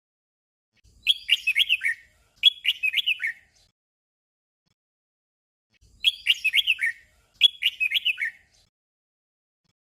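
Red-whiskered bulbul singing its short 'double' song: a pair of quick phrases of bright, gliding whistled notes, given twice with a silent gap of a few seconds between.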